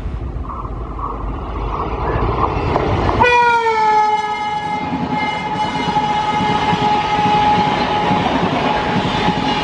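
An Indian Railways express train running past at speed, its noise building over the first three seconds. About three seconds in, the locomotive's horn starts, a long multi-tone blast whose pitch dips at the start and then holds over the steady running noise of the train.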